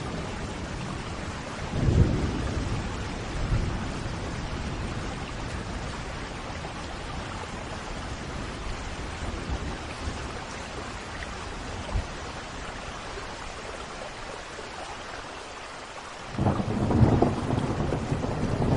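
Thunderstorm: steady rain with rolls of thunder. There is a short rumble about two seconds in and another shortly after, then a louder, lasting rumble of thunder sets in near the end.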